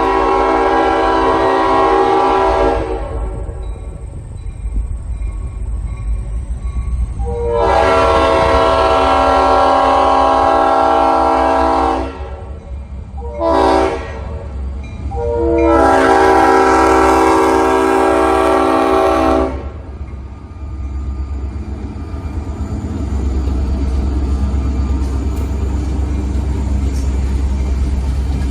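Green Mountain Railroad locomotive's multi-tone air horn sounding the grade-crossing signal: two long blasts, a short one, then a long one. After the last blast, a steady low rumble of the approaching train grows louder.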